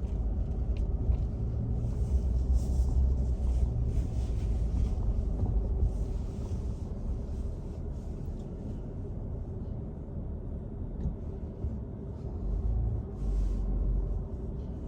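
Low, steady rumble of a vehicle driving, heard from inside, that swells louder in the first half and again near the end.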